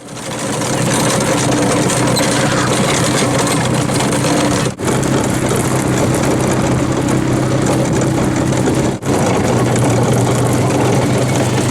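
Engine of the cow train's tow vehicle running steadily, a loud low hum with rattling noise over it, cutting out briefly twice.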